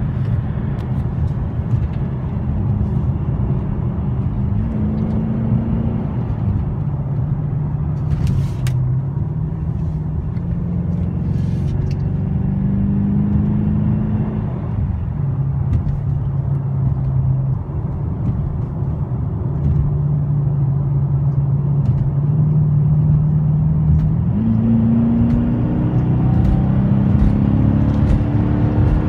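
2014 Dodge Charger R/T's 5.7-litre HEMI V8 heard from inside the cabin at highway speed, its note rising and falling a few times, then climbing steadily near the end under hard acceleration.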